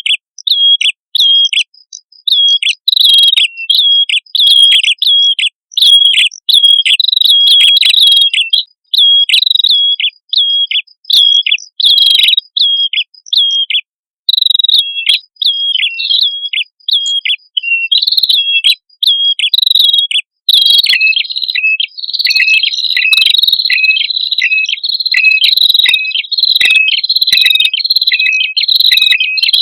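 Male and female red-headed prenjak calling, a fast string of repeated sharp high chirps in short bouts. From about twenty seconds in, a second, lower voice overlaps the first in a dense, continuous exchange.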